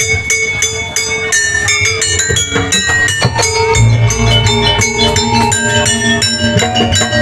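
Javanese jaranan gamelan music: struck bronze metallophones ringing out a quick, repeating melodic pattern, with a low drum coming in about four seconds in.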